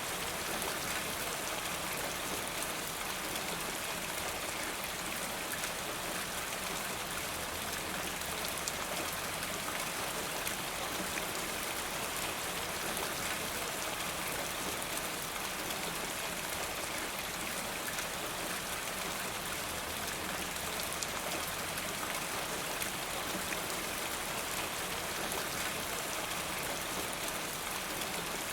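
Steady rain falling, with many small drops pattering on hard surfaces and water running off a rain gutter.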